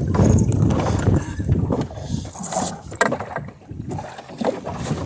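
Wind rumbling over the microphone aboard a small sailboat, with water and hull noise and a couple of sharp knocks from the boat's gear as it goes about.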